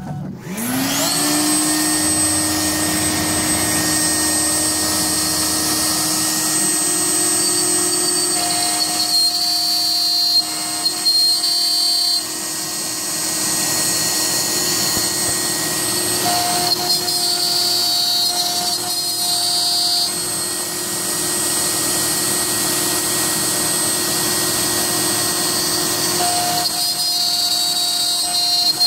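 Home-built CNC router's spindle spinning up about half a second in and running steadily with a high whine while it cuts 1-inch HDPE. A second, higher tone comes and goes three times for a few seconds each.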